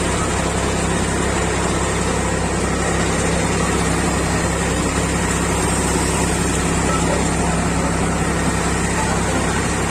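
Tractor engine running steadily at an even speed during paddy threshing.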